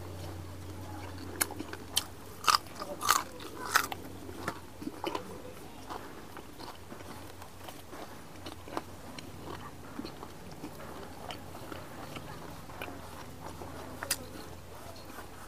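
Close-miked chewing and biting of meat eaten by hand, with a run of sharp, loud crunches in the first few seconds and scattered smaller clicks and smacks afterwards.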